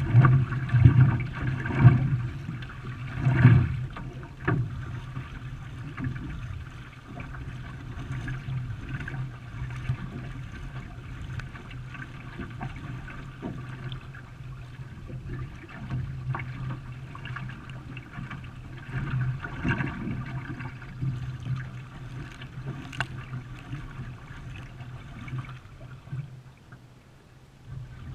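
Water splashing and sloshing around a racing canoe as it is paddled, with a steady low rumble and irregular splashes, loudest in the first few seconds.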